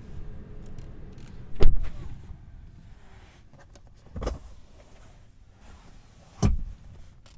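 Three dull thumps inside a car cabin: the loudest about one and a half seconds in, the others about four and six and a half seconds in, over a low rumble that fades after the first.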